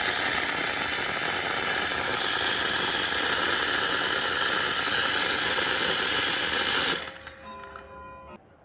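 Coffee machine running with a loud, steady hiss that cuts off about seven seconds in, followed by a few faint steady tones.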